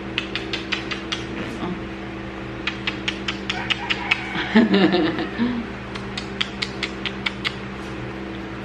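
An American Bully puppy licking and smacking its mouth while taking an oral dewormer, heard as quick runs of small wet clicks that come and go in three spells.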